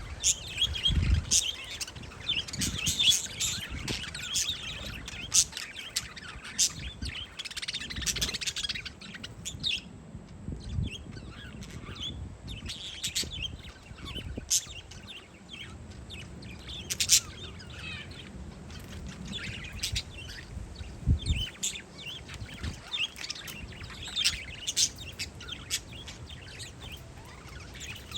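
Parakeets chirping in many short, sharp calls, busiest for the first nine seconds and sparser after, with wind now and then rumbling on the microphone.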